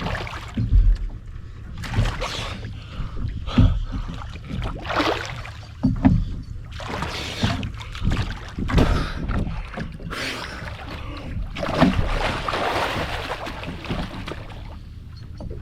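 Water splashing and sloshing in irregular bursts as a person moves in the water beside a capsized kayak, over a steady low rumble.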